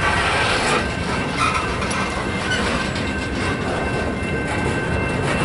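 Rear cars of a work train rolling past, steel wheels rumbling and clicking over the rails.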